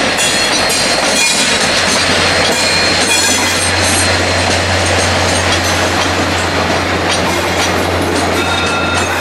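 VIA Rail F40PH-2 diesel locomotive passing, its EMD 16-cylinder two-stroke diesel running with a steady low drone. The passenger cars follow it by, their wheels squealing in high thin tones and clicking over the track.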